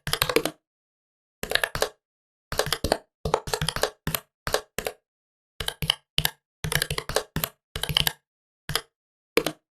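Typing on a laptop keyboard: quick runs of key clicks in short bursts with brief pauses between them.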